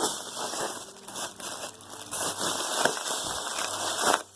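Close, crackling and crinkling handling noise that starts suddenly and stops shortly before the end.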